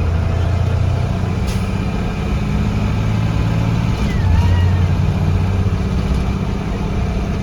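Blue Bird Vision school bus engine running as the bus drives, heard from inside the bus, its note shifting in pitch about a second in and again about four seconds in.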